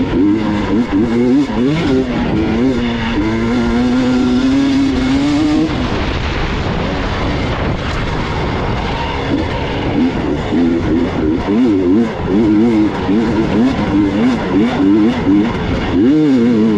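Gas Gas EX 300 two-stroke dirt bike engine under way, its revs rising and falling with the throttle. The revs hold steady for a few seconds, drop back for a stretch around six seconds in, then rise and fall quickly again.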